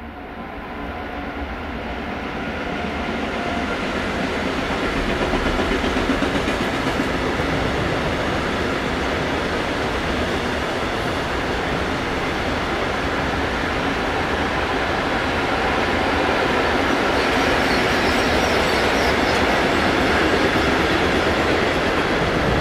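Electric train running on the main line, its noise growing over the first six seconds and then holding loud and steady as it comes close.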